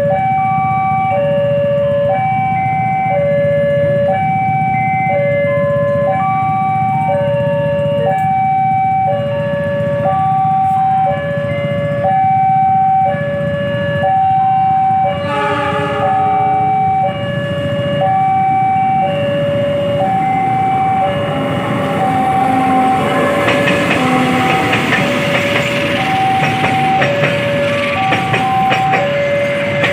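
Railway level-crossing warning alarm sounding a steady two-tone high-low signal, about one cycle a second, warning that a train is approaching. A short horn blast sounds about halfway through. From about 22 seconds in, an approaching train's rolling noise and wheel clatter build up under the alarm.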